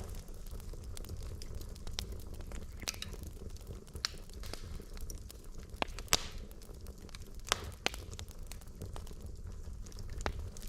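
Wood logs burning in a fireplace: a steady low rumble of flame with scattered sharp crackles and pops. The loudest pop comes about six seconds in.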